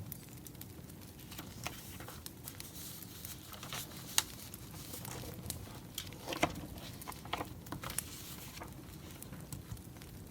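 Burning firewood crackling, with irregular sharp pops over a low steady rustle; the loudest pops come about four seconds in and again a little past the middle.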